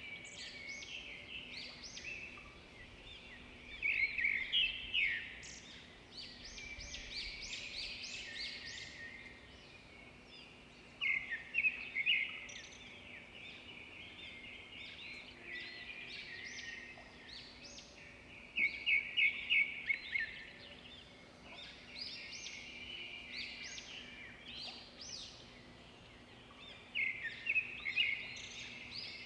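Edible-nest swiftlets twittering: bursts of rapid, high, buzzy chirps every several seconds, with softer twittering in between.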